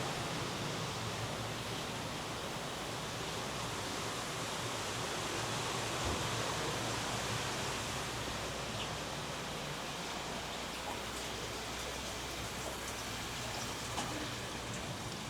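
Steady rush of flowing water with a faint low hum beneath it, and a light click near the end.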